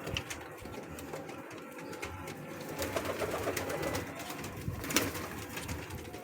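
Domestic frill pigeons cooing in low, rolling murmurs that swell about halfway through, with scattered light clicks.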